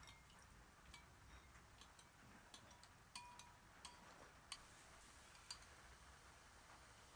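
Faint, scattered light clicks and clinks of kitchen utensils and dishes, a couple of them ringing briefly about three seconds in, over near silence.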